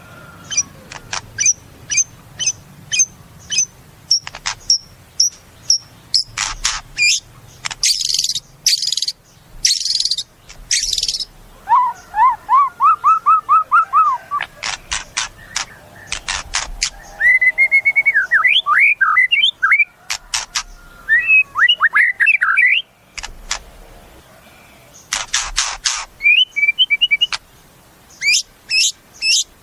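White-rumped shama (murai batu) singing a long, varied song. It moves from runs of sharp clicking notes and buzzy rattles to a quick series of falling whistled notes and fluty slurred phrases. It breaks off briefly, then goes on into another fast run of clicks.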